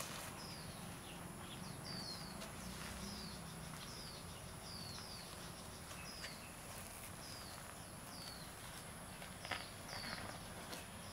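A bird repeating a short, high, downward-slurred chirp, about once or twice a second, over a steady thin high-pitched tone in the background. Near the end there are a couple of brief soft scuffs.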